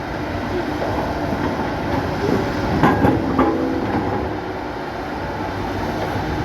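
Tracked excavator working: diesel engine running, with its steel tracks and bucket clanking. A few louder clanks come about three seconds in.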